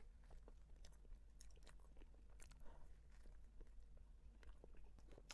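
A person biting into and chewing soft cream-filled bread, picked up close by a clip-on microphone: faint, scattered mouth clicks and soft squishy chewing.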